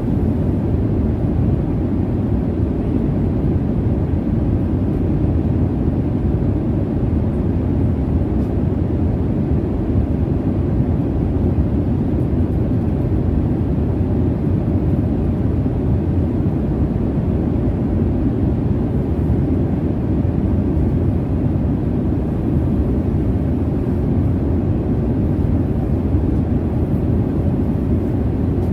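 Airliner cabin noise in flight: a steady, deep jet-engine and airflow rumble, unchanging throughout.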